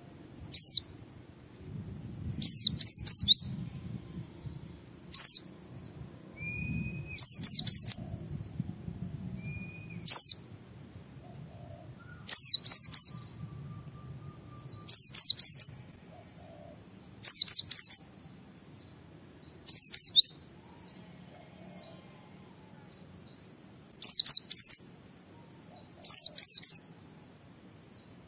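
White-eye (pleci) singing: short, high, rapid chirping phrases, repeated about every two to three seconds.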